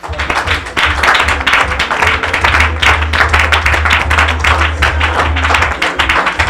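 Church congregation clapping fast along with music that has a steady deep bass.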